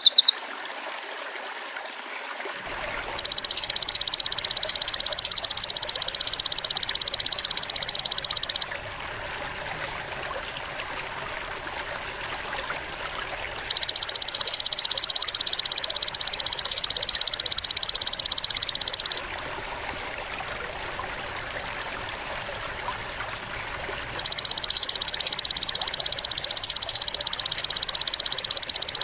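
Belalang emas (golden grasshopper) call played as a masteran recording: a high, fast-pulsing buzz held for about five seconds, three times, with gaps between. Under the gaps runs a steady stream-like hiss.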